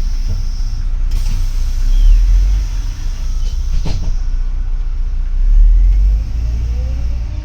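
Double-decker city bus driving, heard from inside the cabin: a steady engine and road rumble that swells twice, with faint whines rising and falling and two sharp knocks from the body.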